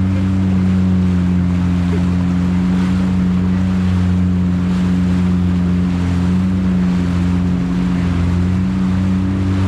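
Yamaha VX jet ski's engine running steadily at cruising speed, with water rushing along the hull. The engine pitch sags a little past the middle and rises again near the end.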